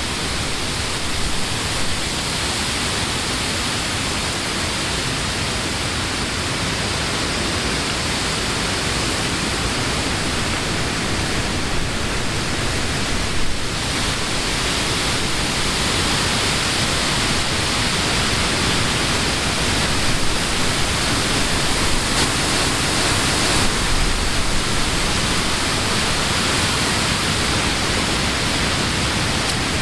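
Wind blowing through the leaves of trees, a steady rushing hiss that swells a little in gusts toward the middle and later part.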